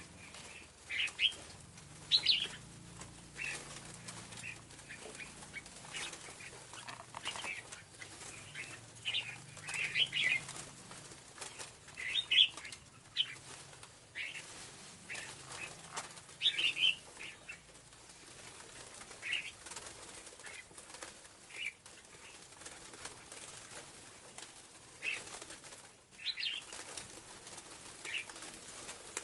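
Scarlet-backed flowerpecker calling: short, sharp, high chips in quick clusters every second or two, some louder and some fainter, used as a lure call.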